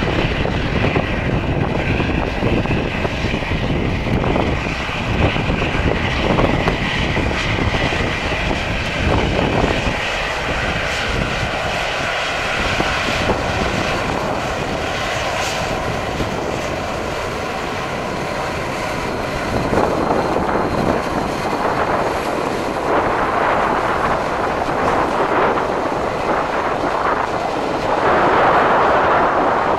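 Airliner engines running: a steady whine over a rush of engine noise, growing louder near the end.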